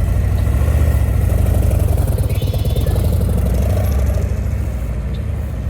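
A vehicle engine running with a steady low, pulsing rumble, easing off near the end.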